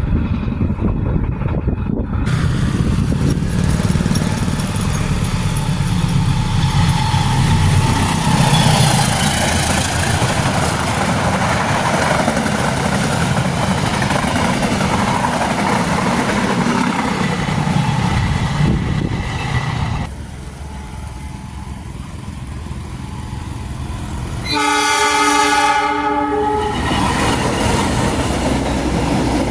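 Long-distance passenger train running past at speed, its wheels clattering over the rail joints. Near the end the locomotive's horn sounds one long chord-like blast of nearly two seconds, and the train's rolling noise carries on.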